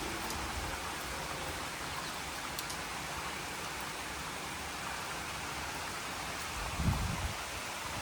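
Steady rain falling, an even hiss throughout, with a short low rumble about seven seconds in.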